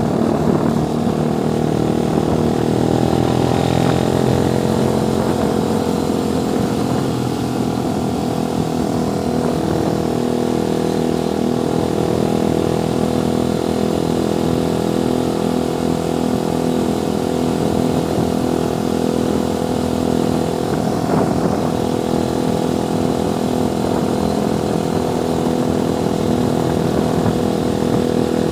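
Small motorcycle engine running steadily under way, its pitch shifting a little with the throttle.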